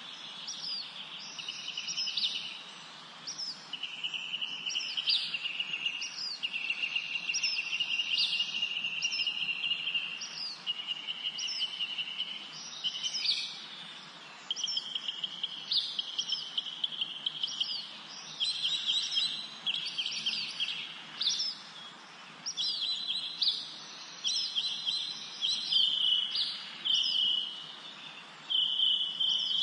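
Several songbirds singing together in a spring forest: rapid trills of a second or two each, interleaved with short, high, falling chirps that repeat every second or so, over a faint steady hiss.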